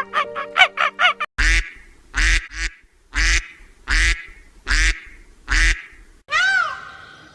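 A domestic duck quacking loudly, six calls at a steady pace of a little more than one a second. Before the quacks, the last notes of a short musical jingle fade out. Near the end a cat starts to meow.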